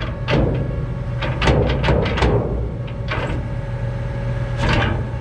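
A run of sharp knocks and clanks, about ten, coming irregularly with a burst of quick ones in the middle, over an engine running steadily.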